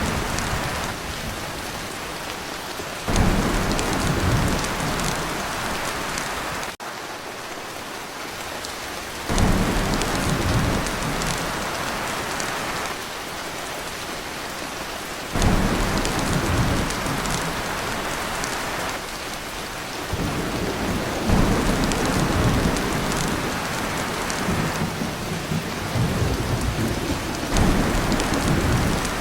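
Heavy rain pounding on a tin roof, a steady hiss, with rolls of thunder that rumble in abruptly about every six seconds and fade back under the rain. There is a brief dip about seven seconds in.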